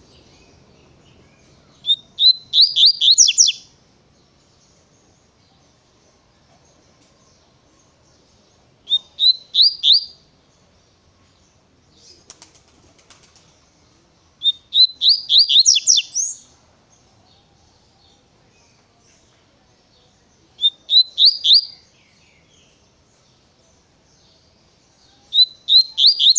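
Double-collared seedeater (coleiro) singing its 'tui-tui' song: short phrases of quick, rising whistled notes, five phrases each about a second long, spaced five to six seconds apart, the last cut off at the end.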